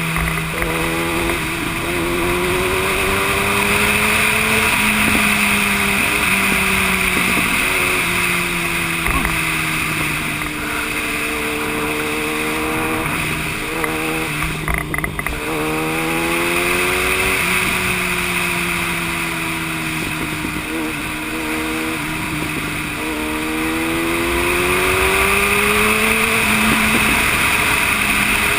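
Yamaha YZF-R1 sport bike's inline-four engine running at road speed, its pitch rising and falling slowly with the throttle. A few quick breaks come about halfway through. A steady wind rush runs under it.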